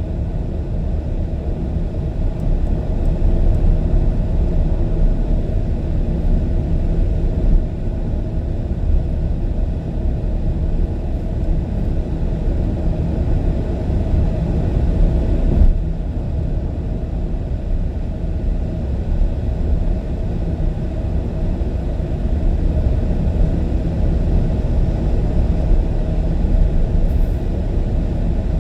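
A car driving steadily, with a constant low rumble of road and engine noise.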